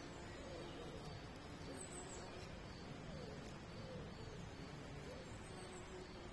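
Faint outdoor birdsong: a few short, high chirps over steady low background noise, with some faint low wavering calls.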